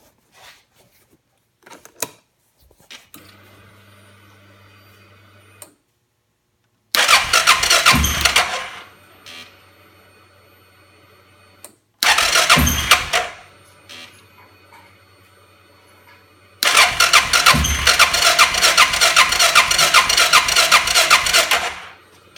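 2005 Suzuki King Quad 700 ATV's electric starter cranking the engine three times without it starting. The first two tries last about a second and a half each and die away. The third runs about five seconds. A steady low hum sounds between the tries.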